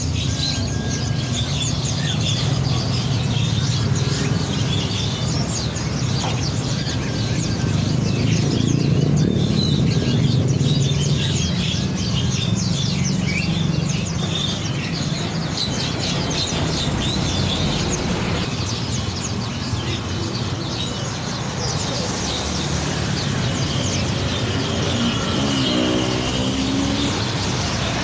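Many small songbirds chirping and trilling at once in a continuous chorus, over a steady low rumble.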